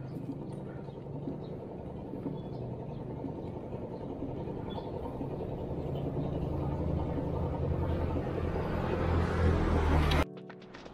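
Motor vehicle engine and road noise, a steady low hum that grows louder toward the end, then cuts off abruptly about ten seconds in.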